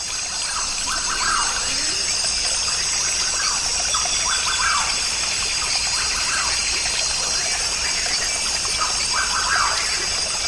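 Rainforest ambience recording: a short bird call repeating every second or two over a steady high hiss.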